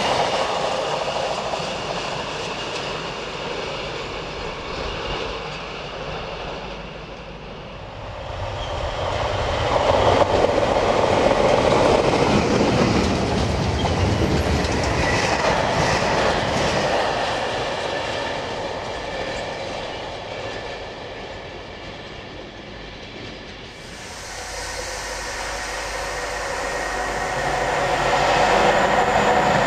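Trains passing on an electrified main line: a container freight train running past, fading away. After a cut, a second loud passage fades out. Near the end a locomotive-hauled train of red vans approaches and grows louder as it comes in.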